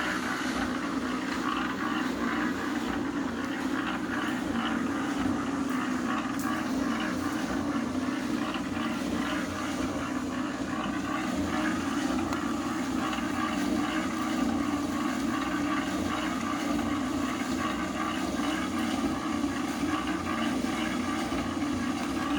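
A steady motor drone at an even level, with no break or change in pitch.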